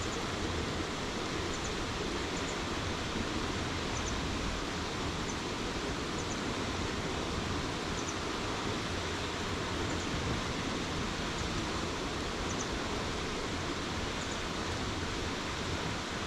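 Steady rush of flowing stream water below a dam, an even hiss with no break. Faint high double ticks recur every second or so.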